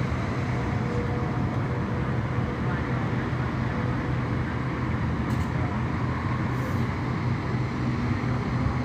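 Steady low rumble of street traffic and vehicle engines, with a constant low hum.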